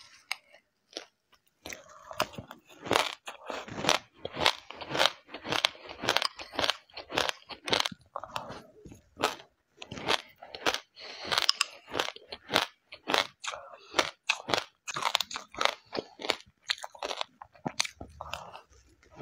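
A mouthful of mixed seeds being chewed, a dense run of sharp crunches and crackles that starts about two seconds in and goes on without a break.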